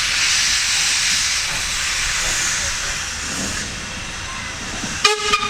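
Steam locomotive hissing steam, a steady hiss that eases off a little after about two seconds. A brief sharp high-pitched tone cuts in near the end.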